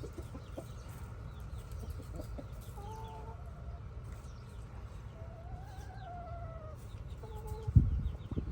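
Backyard chickens clucking and calling: a few short calls about three seconds in, a longer call that rises and falls around six seconds, and another short call near the end, over a steady low rumble. A loud thump comes near the end.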